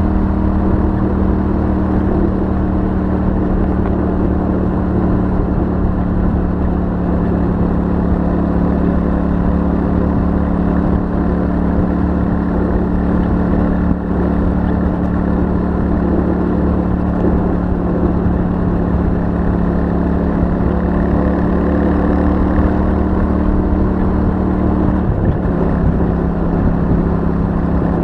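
Royal Enfield Super Meteor 650's 648 cc parallel-twin engine and stock exhaust running steadily at cruising speed. The engine note dips slightly near the end.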